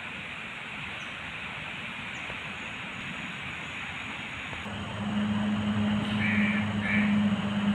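Steady rushing noise, then a little over halfway a low, steady engine hum starts and the sound grows louder.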